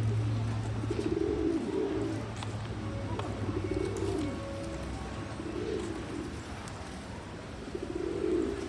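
Pigeons cooing: repeated low, rounded cooing phrases every second or two. A low steady hum sits under the first half and fades.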